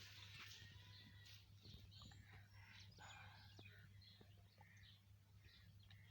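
Near silence outdoors: faint, scattered bird chirps over a low, steady hum.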